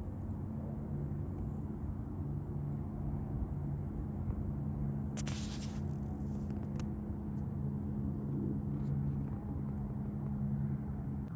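A vehicle engine running with a steady low hum. A brief rustle or crackle is heard about five seconds in.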